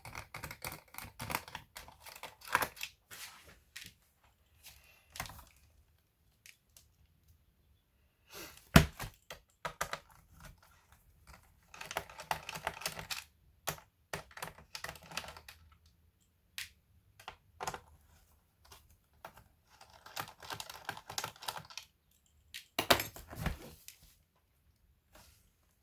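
Quick clusters of small clicks, rattles and scrapes from the plastic and metal parts of a Samsung RV518 laptop being handled and worked on during disassembly, with quiet gaps between them. A single sharp knock about nine seconds in is the loudest sound, and another comes near the end.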